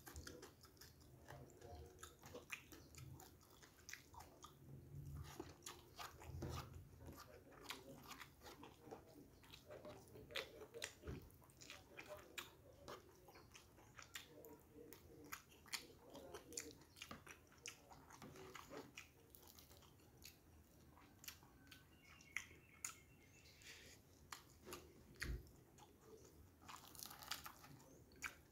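Faint, close chewing of rice, tofu and fried fish: a steady run of small mouth clicks and smacks.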